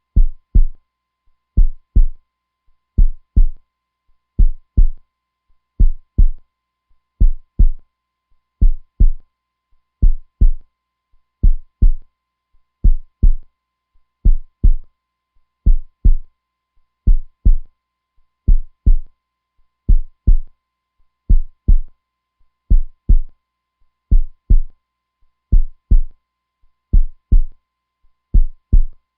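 Heartbeat: a slow, steady lub-dub, two low thumps close together, repeating about once every second and a half.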